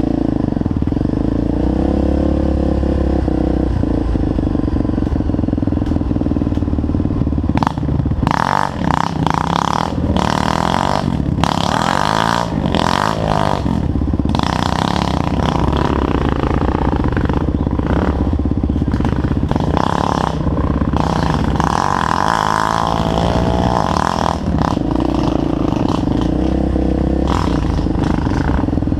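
Trail motorcycle engine running, its pitch rising and falling with the throttle. Stretches of clattering and rattling noise come in about a third of the way in and again in the second half.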